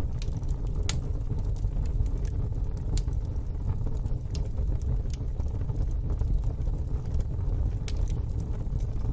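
Wood fire burning in a fire pit, crackling and popping with sharp irregular snaps over a steady low rumble.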